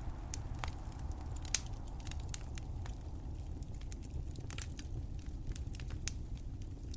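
Crackling wood fire: a steady low rumble of flames with irregular sharp pops and snaps, the loudest about one and a half seconds in.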